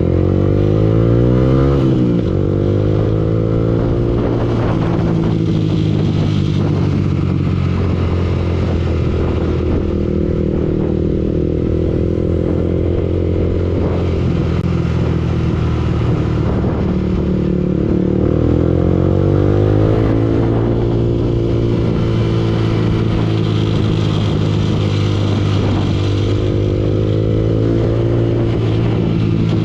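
Yamaha R15 V2's single-cylinder four-stroke engine running under way. It revs up and drops pitch at a gear change near the start, runs steadily, then revs up and shifts again about two-thirds of the way through.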